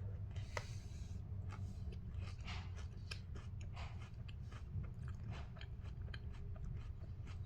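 Close-up chewing of crisp rice cereal in milk, with many small, irregular crunches and clicks. A low steady hum runs underneath.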